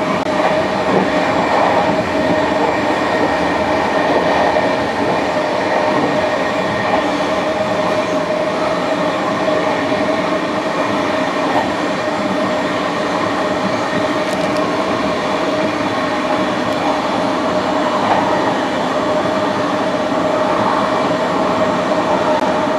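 Passenger train running along the track: a steady rumble of wheels on rails with a constant whine over it.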